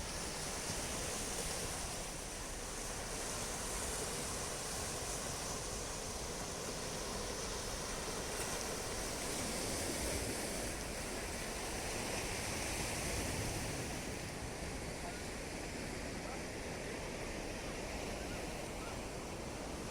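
Sea surf washing onto the shore in a steady hiss that swells and eases slowly, with some wind buffeting the microphone.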